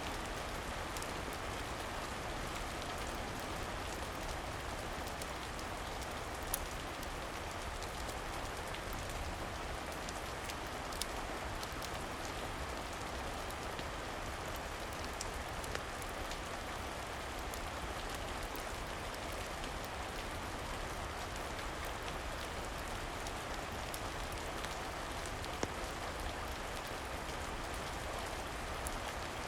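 Steady rain falling, with a few sharp crackles from a wood fire scattered through it.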